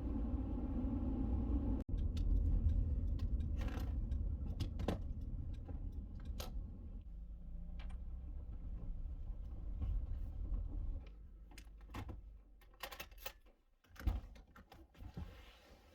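Road and engine rumble inside a Honda Element while driving, with a few clicks over it; about eleven seconds in the rumble fades away as the car comes to a stop, leaving scattered clicks and light knocks.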